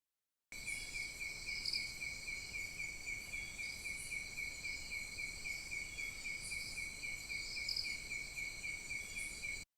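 Forest insects calling: a steady chirping pulse about four times a second over a continuous high-pitched insect drone. The sound starts suddenly about half a second in and cuts off abruptly near the end.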